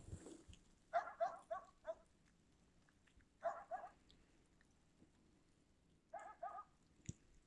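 A dog barking in three quick bursts of short, high-pitched barks, three to five barks each, about a second in, midway and near the end.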